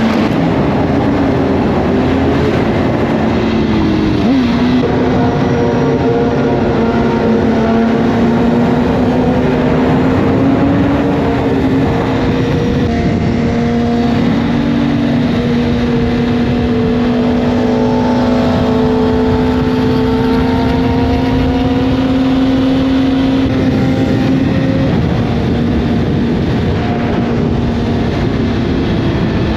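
Sport motorcycle engines running at a steady highway cruise, their note held nearly level with only slight rises and falls in pitch.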